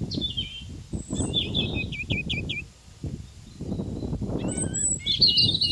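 Songbirds singing: a short phrase near the start, a run of five or six quick falling notes about two seconds in, and a busier burst of chirps near the end. Under them runs a loud, uneven low rushing noise that briefly drops away around the middle.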